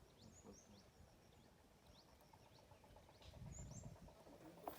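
Faint bird chirps: short, quick notes that slide downward, repeated irregularly, with a couple of brief high whistles.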